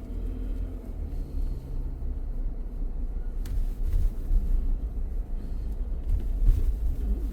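Steady low rumble of a car driving on the road, heard from inside the car, with a single sharp click about three and a half seconds in.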